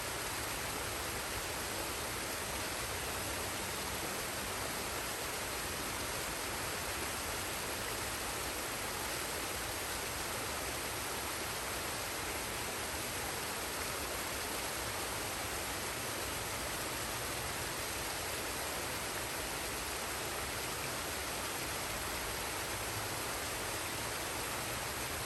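Forest waterfall and stream: water falling and rushing as a steady, even rush with no breaks or changes.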